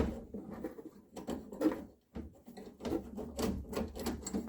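Irregular quick clicks, knocks and rattles of metal parts being worked by hand in a car's quarter-window regulator, as a roller is seated in its slot at the bottom of the mechanism. There is a short pause about two seconds in.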